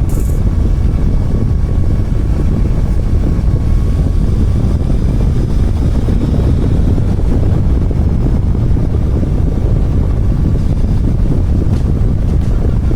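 Motorcycle underway: steady wind rumble on the camera's microphone over the running engine and road noise.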